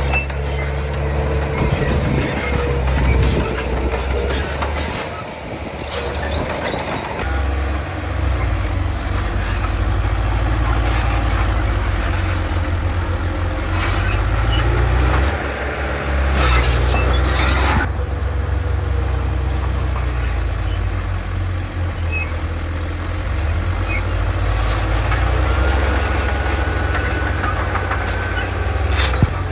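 Komatsu D31 bulldozer's diesel engine working under load, its pitch rising and falling several times as the dozer pushes. Thin high squeals and scattered clanks come and go over it, typical of crawler tracks running.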